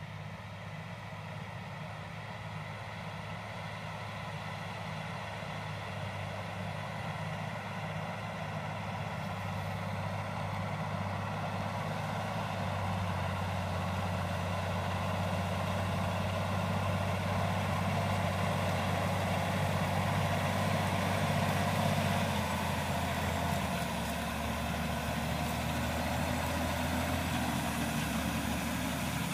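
A heavy engine running steadily, its low hum growing slowly louder and dropping in pitch in a couple of steps near the end.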